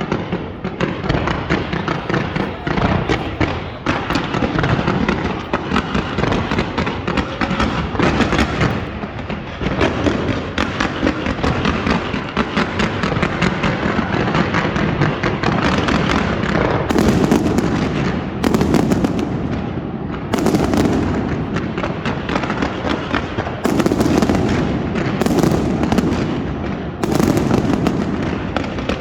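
Fireworks display: dense, continuous crackling and popping from many bursting shells. In the second half, about six louder, sharper bangs stand out.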